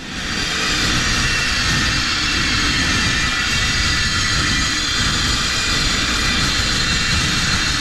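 Angle grinder with a cutting wheel spinning up and running steadily, cutting steel plate with a loud, even high-pitched whine.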